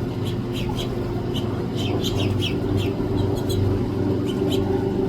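Small birds giving many short chirps in quick scattered bursts, busiest around the middle, over a steady low mechanical hum.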